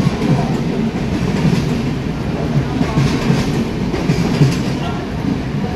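Duronto Express passenger coaches rolling past along a platform: a steady rumble of wheels on rail, with short clacks as the wheels cross rail joints.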